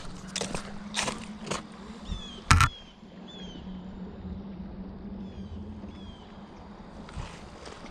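Footsteps and knocks on creek stones, with one loud thump about two and a half seconds in. Short falling chirps sound a few times through the middle, over a steady low hum.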